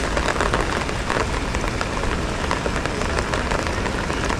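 Rain falling steadily, a dense continuous patter of drops.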